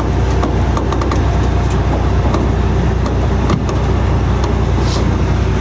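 Heavy truck engine running steadily, with many light clicks and rattles over it.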